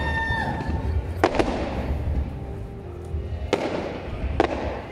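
Fireworks shells bursting overhead: sharp bangs, two in quick succession about a second in and two more later, over a continuous low rumble of further explosions.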